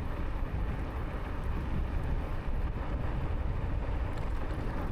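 Steady wind rumble on the microphone of a moving e-bike, heaviest in the low end.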